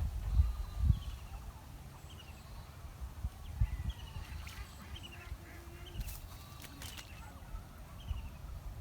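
A bird repeating a short, high, falling chirp about once a second, with low thumps in the first second and a few sharp clicks near the end.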